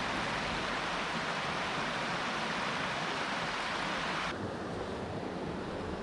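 Mountain stream water rushing steadily. A little over four seconds in, it changes abruptly to a duller, slightly quieter rush.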